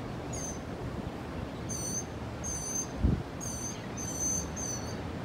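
Ocean surf washing in the background while a bird calls repeatedly in short, high chirps. A single low thump comes about three seconds in.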